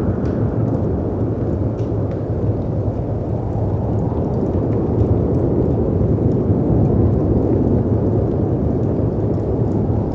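Storm ambience: a steady, deep rumble of wind and sea surf, with scattered small crackles and pops from a wood fire.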